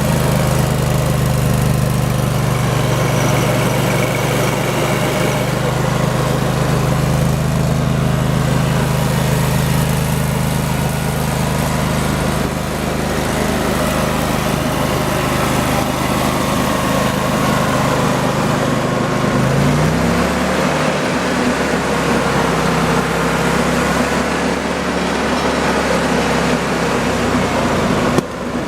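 Rayco 1625 Super Jr stump grinder's twin-cylinder gas engine running steadily. About two-thirds of the way in, its pitch rises as the engine speeds up, then holds steady at the higher speed.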